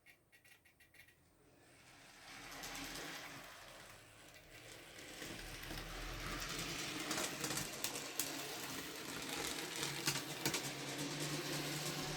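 N gauge model train running on the track: a small electric motor's whirr that grows louder from about two seconds in, dips briefly and builds again, with scattered sharp ticks from the wheels on the rails.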